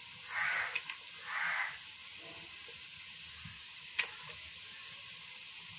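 Beans and carrot sizzling in butter in a pan, a steady frying hiss, with two louder bursts of sizzling in the first two seconds as chopped cabbage is added. A single sharp tap about four seconds in.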